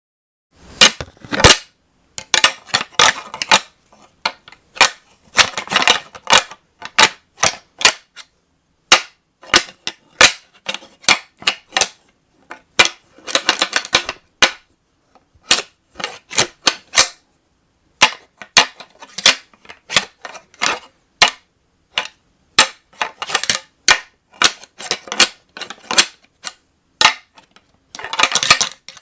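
A pair of real whitetail deer antlers rattled together in irregular bursts of sharp clacks and grinding ticks, with short pauses between bursts: a rattling sequence imitating two bucks fighting.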